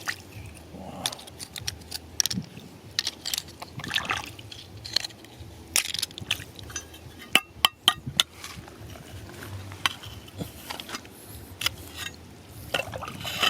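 Small stones and gravel clinking and knocking together in shallow river water, with splashing, irregular clicks throughout, and a cluster of sharper clicks about halfway through.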